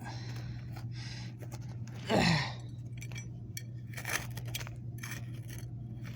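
Scraping and scratching of digging in dirt: scattered short scrapes and clicks over a steady low hum. About two seconds in, a brief louder sound slides down in pitch.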